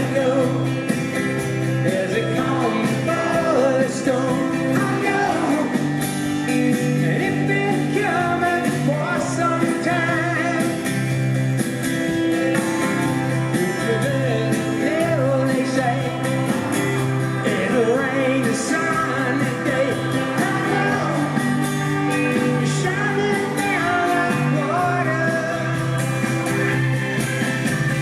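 Live rock band performing a classic rock song, with a male lead vocal singing over guitars, bass and drums.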